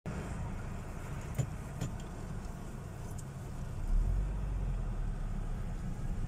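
A car driving on a gravel road: a steady low rumble that grows louder and deeper about four seconds in, with a few faint clicks.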